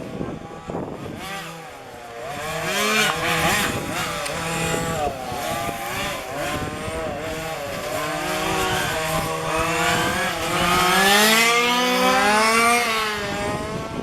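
Several 1:5-scale petrol RC cars' small two-stroke engines racing around a track at once, their pitch rising and falling with throttle. They are loudest as a car passes close, toward the end.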